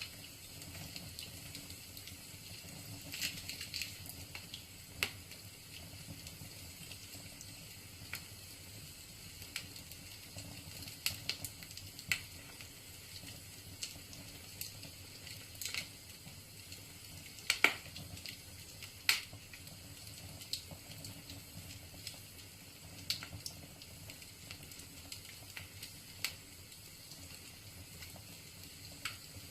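Wood fire crackling in a fireplace: irregular sharp pops and snaps of burning logs over a steady low hiss, the loudest two pops a little past halfway.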